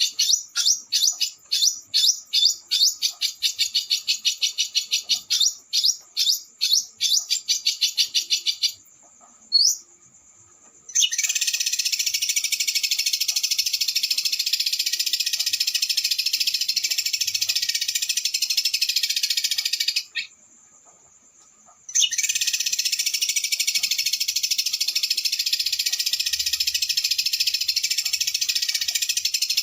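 Small songbird singing a fast, harsh 'roll speed' song: quick stuttering notes for about nine seconds, a single short whistle, then a dense, unbroken high-pitched trill that breaks off for about two seconds and starts again.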